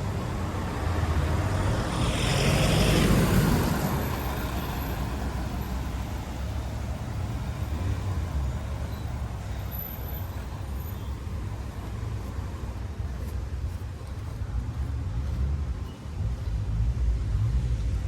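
Car engines running with a steady low rumble; a louder rush of noise swells up about two seconds in and fades after a couple of seconds, like a vehicle passing close.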